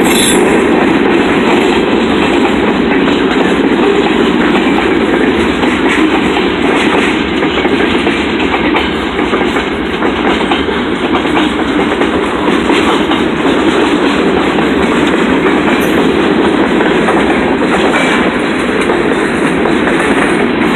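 Freight train cars rolling past steadily, their steel wheels on the rails making a continuous noise with repeated clicks. The noise dips slightly about halfway through, then holds.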